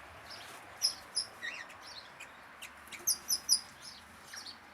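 Small birds in a mixed aviary chirping: scattered short, high-pitched chirps, with a quick run of three louder ones about three seconds in.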